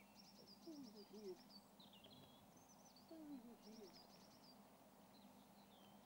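Faint wild birdsong in a quiet background: a quick high trill of rapid repeated notes near the start and again in the middle, short falling whistles between them, and a few low gliding calls.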